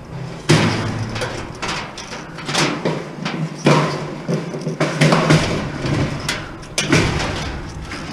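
Irregular metal knocks, clanks and thuds from tools and parts as a household appliance is stripped for scrap and its wiring pulled out.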